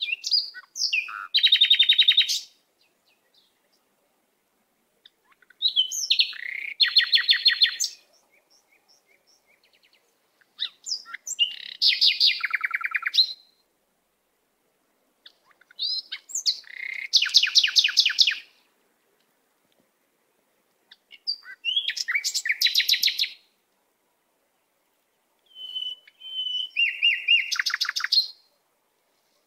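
A songbird singing the same phrase six times, about every five seconds: a few quick whistled notes, then a fast trill of repeated notes.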